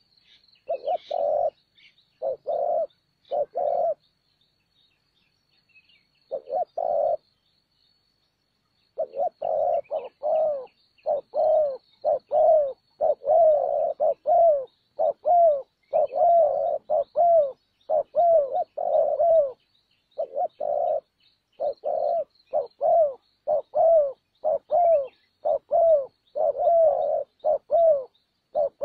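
Spotted dove cooing: short, low, repeated coos in quick phrases. There are a few phrases at first, a pause of several seconds, then near-continuous calling from about nine seconds in. A faint thin high tone runs underneath.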